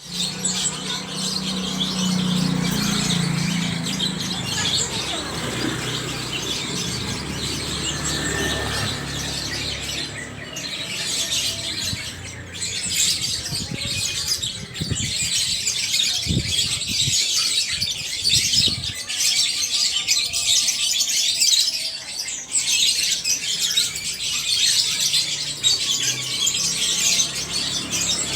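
Many caged canaries and lovebirds chirping and squawking together in a continuous, dense high-pitched chatter.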